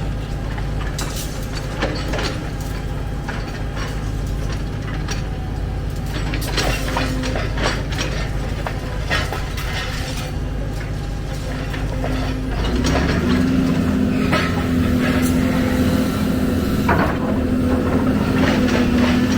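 Excavator's diesel engine running with scattered metallic clanks and clicks. About 13 seconds in, the engine note rises and grows louder, as when the engine is put under hydraulic load.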